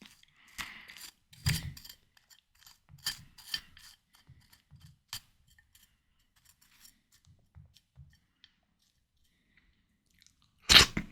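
Close-miked chewing of juicy watermelon: wet crunches and mouth clicks, dense for the first few seconds, then thinning to faint ticks. A single loud crunching burst comes near the end.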